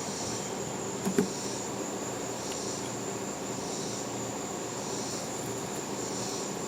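Insects chirping: a steady high trill with a softer pulsing call about once a second over a steady background, and a brief knock about a second in.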